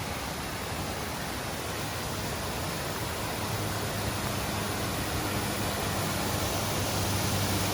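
Waterfall rushing steadily, a continuous even noise of falling water that grows slowly louder.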